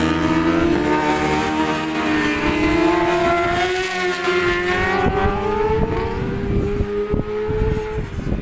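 Racing motorcycle engine held at high revs, its pitch climbing slowly for several seconds and then dropping about eight seconds in, with wind buffeting the microphone.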